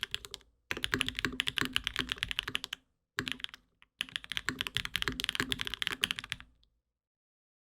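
Typing on a Mode Sonnet mechanical keyboard with Durock POM switches lubed with Krytox 205g0, a carbon fiber plate in iso-top mount and GMK Hennessey keycaps. Runs of rapid keystrokes come in several bursts with short pauses, and the typing stops about six and a half seconds in.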